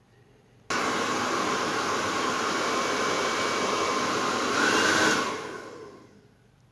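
A Sonashi handheld hair dryer switched on abruptly, blowing with a steady rush of air for about four seconds, briefly louder near the end, then switched off and winding down over about a second.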